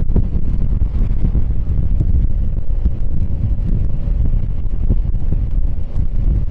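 Wind buffeting the microphone of a moving scooter: a loud, steady low rumble of riding noise with irregular gusty flutter.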